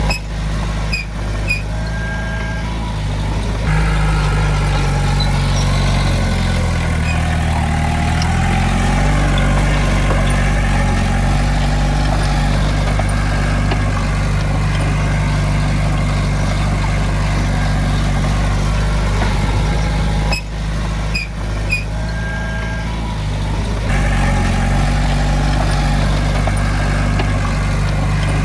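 Heavy diesel engine running, its note climbing about four seconds in and again near the end as it is throttled up, with a few brief dips in level.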